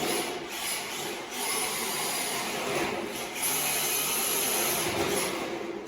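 MST RMX 2.0 RC drift car driving on rubber tires: a high electric motor whine that swells and fades with the throttle, over the noise of the tires scrubbing on the floor.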